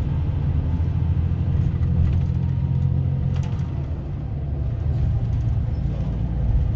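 Motor vehicle running: a steady low engine and road rumble.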